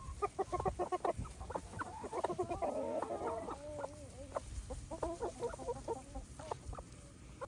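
A flock of chickens clucking, many short clucks overlapping from several birds.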